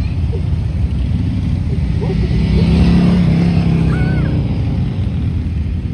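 A stream of motorcycles riding past, engines rumbling steadily, with one passing close and loudest about three seconds in before fading.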